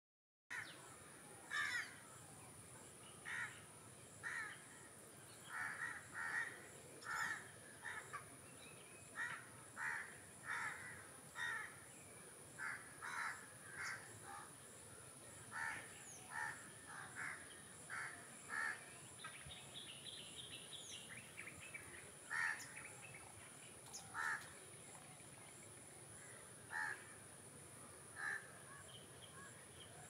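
Birds calling: a short, harsh call repeated at irregular intervals about twenty times, with a brief run of higher chirps about two-thirds of the way through. A faint steady high tone runs underneath.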